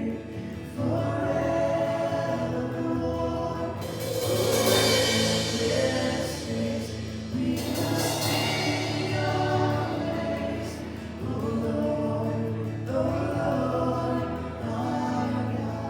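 Slow Christian worship song played by a band, with voices singing over sustained chords and a steady bass; a bright cymbal swell rises about four seconds in and dies away a few seconds later.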